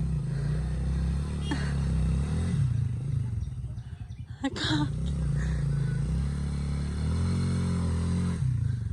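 Motorcycle engine running under load, its pitch dipping and rising, with a sharp clatter about halfway. Near the end it drops to a pulsing idle.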